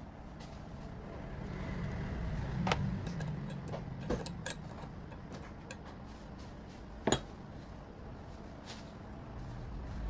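A few sharp clicks and knocks of small hard parts or tools being handled, the loudest about seven seconds in, over a low steady hum.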